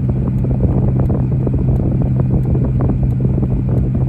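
A car driving: a steady low drone of engine and road noise with a constant hum and many small irregular crackles.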